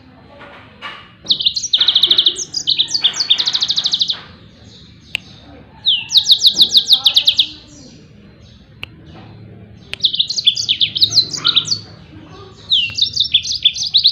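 Yellow-fronted canary (Mozambique canary) singing its rapid-fire 'tembakan' song. It comes in four short bursts of fast, high, repeated trilled notes, each lasting a second or two, with brief pauses between them.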